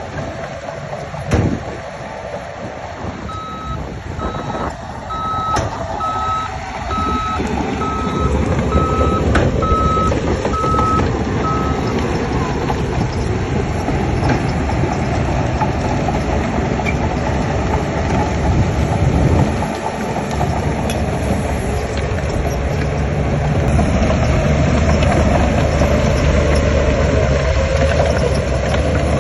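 Heavy construction machinery running, with a vehicle's reversing alarm giving regular beeps from about three seconds in until about twelve seconds. There is a single knock near the start, and the engine grows louder twice, as if under load.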